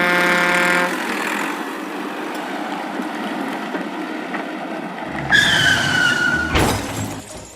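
Cartoon vehicle sound effects: a horn honk, then a steady rushing vehicle noise, then a high, slightly falling squeal followed by a sharp thump near the end.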